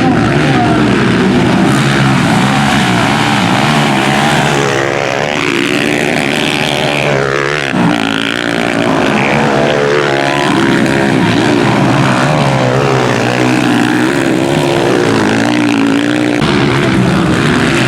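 Several small single-cylinder four-stroke Honda CG-class motorcycles racing, their engines revving up and down with overlapping rising and falling pitches. One engine note drops away about eight seconds in.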